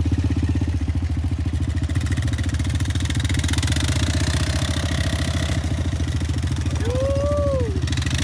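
Off-road vehicle engine running steadily at idle, with a fine, even pulsing. Near the end there is a short tone that rises and then falls.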